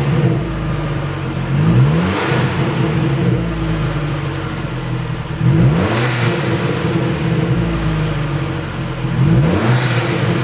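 Fiat Brava T-Jet's 1.4 turbo four-cylinder, its rear muffler removed, blipped from idle three times. Each blip rises and falls quickly in pitch, with a deep, throaty exhaust note between the blips.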